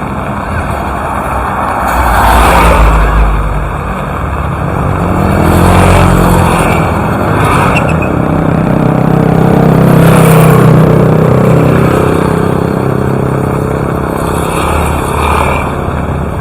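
Motor vehicles passing one after another, their engines swelling and fading over a steady low rumble and hiss.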